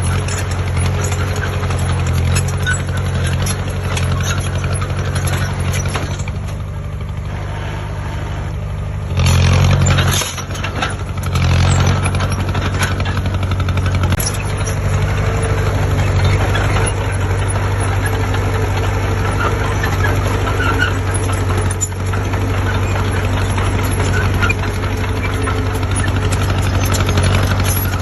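Diesel engine of heavy earthmoving machinery running under load, its revs rising for a moment about nine seconds in and again for a couple of seconds shortly after.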